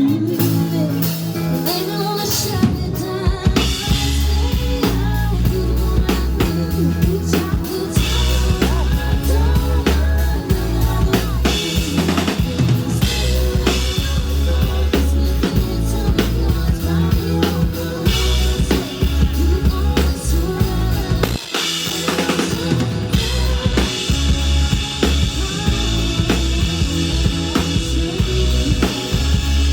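Band music with a drum kit and bass playing a steady beat, dropping out briefly about two-thirds of the way through before picking up again.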